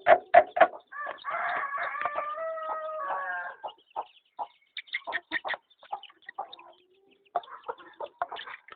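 A rooster crowing once, a drawn-out call of nearly three seconds starting about a second in, with short clucks and clicking sounds before and after it.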